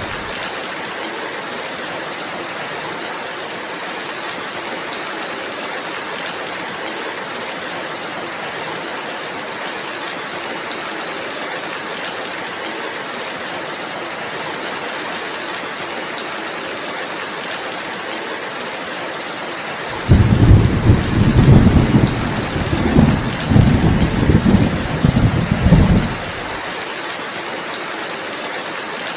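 Steady rainfall, with a roll of thunder about two-thirds of the way through that rumbles low and uneven for about six seconds, then cuts off abruptly.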